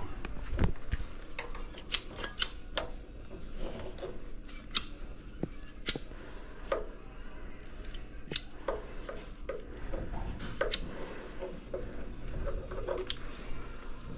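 Light metallic clicks and clinks of handled hard objects, a dozen or so at irregular intervals, over a faint steady low hum.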